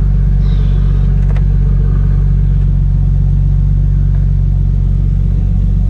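Nissan Skyline R33's RB25DET turbocharged straight-six running steadily at low revs as the car creeps along, heard from inside the cabin as a constant low drone. A light click about a second and a half in.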